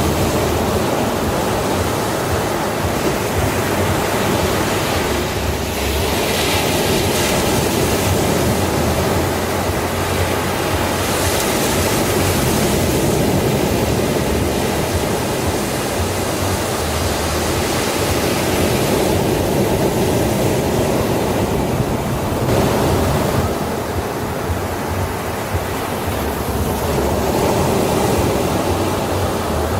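Sea waves on a beach: a continuous wash of surf that swells and eases every few seconds as waves break and run in.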